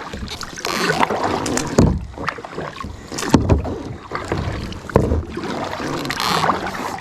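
Kayak paddle strokes splashing and swishing through lake water in uneven swells, with a few sharp knocks in between.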